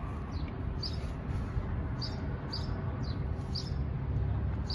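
A bird chirping over and over, short high chirps about twice a second, over a steady low background rumble.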